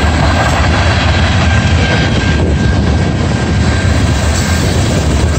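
Freight train cars rolling past, a loud, steady rumble of steel wheels on the rails, with a thin steady high tone above it.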